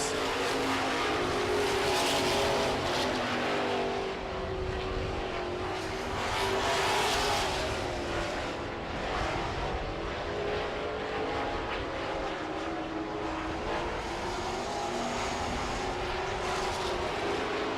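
Several Super Truck race engines running at speed around a dirt oval, with the sound swelling as trucks go by about two and seven seconds in.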